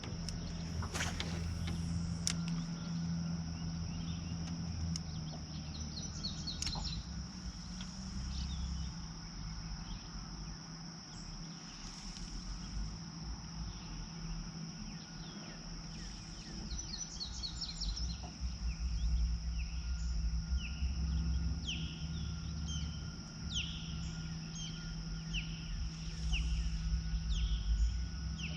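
Outdoor pond ambience: a steady high insect drone, with birds calling in short, quick falling chirps that come more often in the second half. A low steady hum and rumble runs underneath, and there are a couple of sharp clicks in the first seconds.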